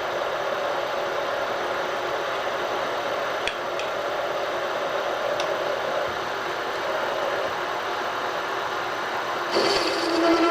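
Machine spindle running steadily while a boring cut opens a bore a few thousandths at a time. Near the end the sound turns louder and takes on a pitched buzz with several overtones.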